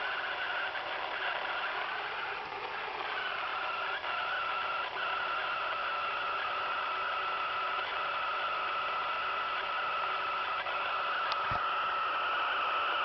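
Radio receiver playing an unexplained steady signal: a constant hum of several held tones mixed with static hiss, with a couple of faint clicks.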